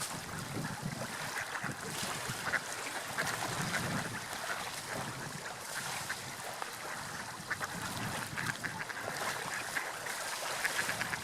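Seagulls calling over and over, short harsh cries, over a steady wash of sea waves and wind.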